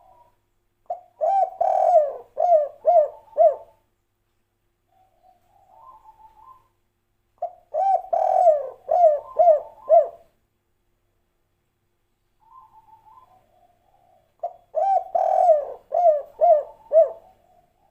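Spotted dove (derkuku) singing the 'kuk 3' song: three phrases, each a long coo followed by three short, quick notes, with softer cooing between the phrases.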